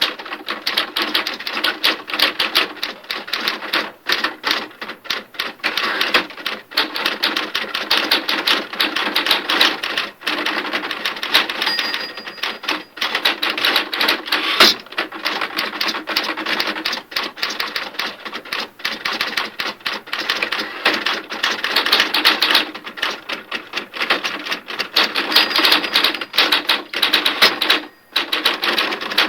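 Typewriter keys struck in rapid, continuous typing, a dense run of clacks broken by a few short pauses. A brief high ring sounds twice.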